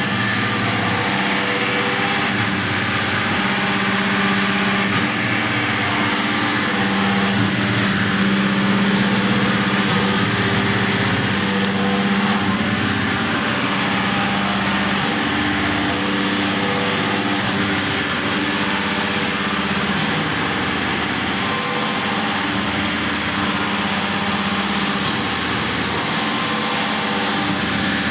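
3B722 surface grinder running: a steady machine hum with a constant hiss over it.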